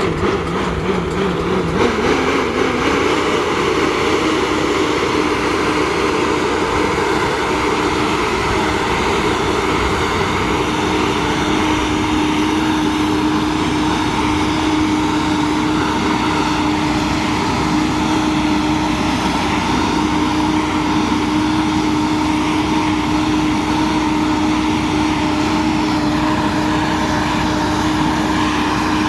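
Air-blast orchard sprayer's fan running under tractor power, a steady loud drone like a propeller. Its pitch steps up about two seconds in, then holds steady.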